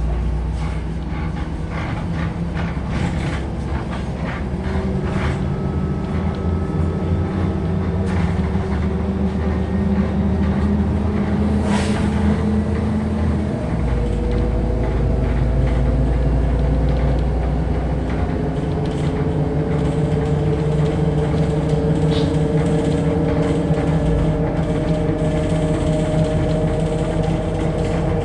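Inside a MAZ-105 city bus pulling away from a stop: the diesel engine's note rises as it accelerates, dropping back at two gear changes, about halfway through and near the end, with clicks and rattles from the bus body early on.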